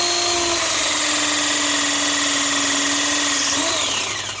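Battery pipe press tool running a press cycle, crimping a 50 mm Bpress gas fitting onto the pipe: a steady motor whine whose pitch sinks slightly as the jaws close. Near the end the pitch briefly rises, then the motor winds down and stops.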